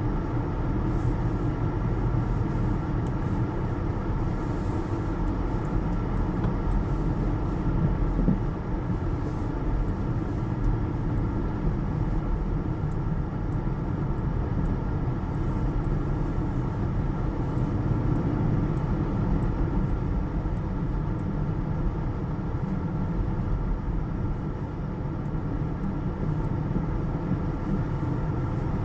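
Car heard from inside the cabin, a steady low rumble of the engine running with a constant hum over it.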